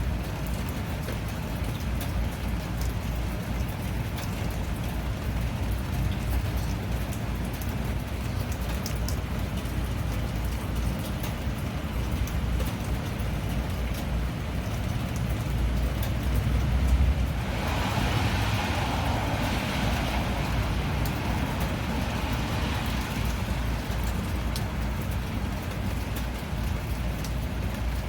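Steady rainfall with a low rumble and fine drop ticks. About two-thirds of the way through, a louder wash of hiss swells up and fades away over several seconds.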